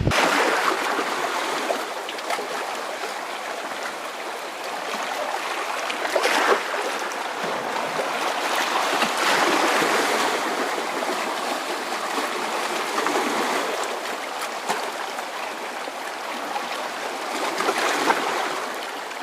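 Gentle Black Sea surf washing onto a stony shore: a steady hiss of water that swells and falls back as each small wave comes in, every few seconds.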